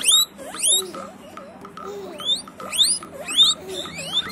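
Guinea pigs wheeking: a run of short, high-pitched rising squeals, two or three a second, with a brief lull about a second in.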